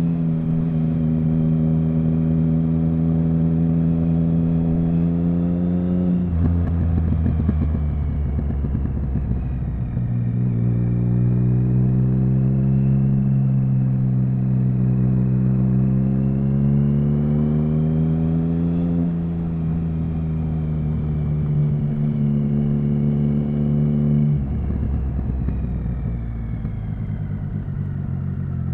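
Triumph Speed Triple 1050's inline three-cylinder engine running under way at city speeds. Its note holds steady, falls about six seconds in, climbs slowly again, then drops twice more in the second half.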